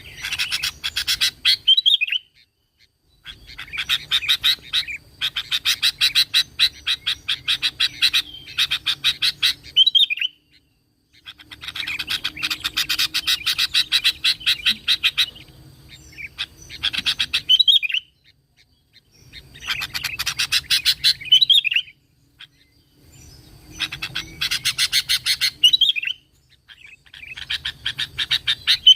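Sooty-headed bulbul singing in repeated bouts a few seconds long: rapid runs of notes, each ending in a short slurred phrase, with brief pauses between bouts.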